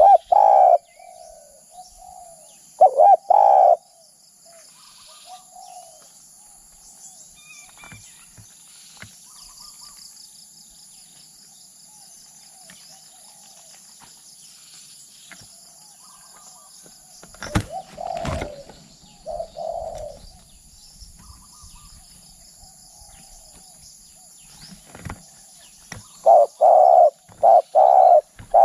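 Spotted dove cooing in short phrases: loud coos at the start and about three seconds in, more past the middle, and a quick run of coos near the end. Between them, faint chirps of small birds over a steady high insect drone.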